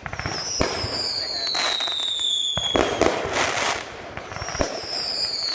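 Consumer fireworks going off: a high whistle falling in pitch for about three seconds, heard twice, among rapid crackling and sharp pops.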